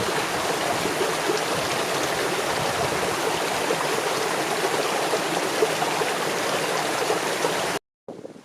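Steady rushing of a mountain stream, which cuts off abruptly near the end, giving way to a brief silence and then a quieter, uneven wind-like noise.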